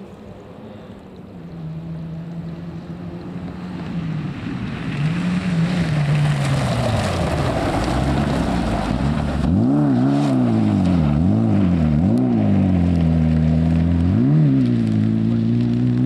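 Rally car engine approaching and growing louder, then revving up and down sharply four times over a few seconds before pulling away on a steadily rising note.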